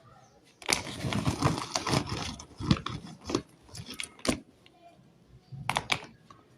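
Lumps of roasted clay clicking, scraping and crunching: a dense crackly stretch about a second in, then single sharp clicks and a short cluster near the end.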